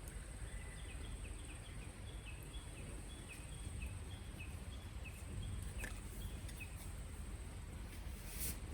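Wild bird singing: a quick series of short, falling high notes, about three a second, that stops about seven seconds in. Behind it is a steady thin high-pitched whine and a low outdoor rumble.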